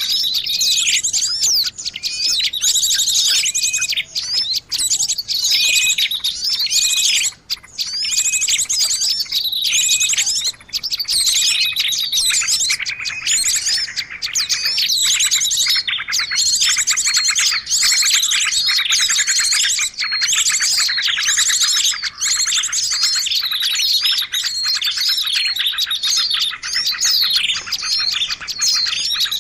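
A dense, unbroken chorus of small birds, with many high chirps and fast trills overlapping with barely a pause. It is a bird-lure recording of small birds' calls used to attract small birds.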